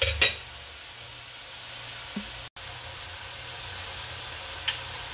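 Tofu, string beans and vegetables sizzling steadily in a metal wok, with sharp clinks of a stirring utensil against the wok at the start and again near the end.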